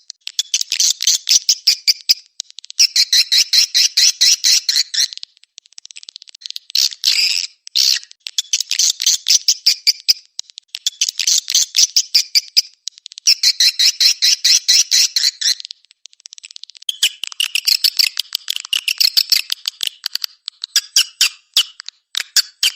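Swiftlet calls, as played to lure edible-nest swiftlets: dense trains of rapid, high twittering chirps and clicks, repeated in bursts of about two seconds with short pauses between.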